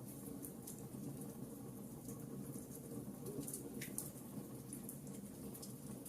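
Wood fire burning in a fireplace: a low steady rumble of flames with scattered small crackles and pops, one sharper pop about four seconds in.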